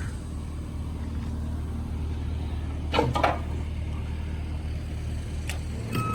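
A vehicle engine running steadily with a low hum, with two sharp knocks about three seconds in. A reversing beeper starts up right at the end.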